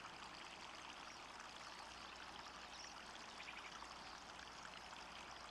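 Faint, steady trickle of water from a small backyard pond waterfall.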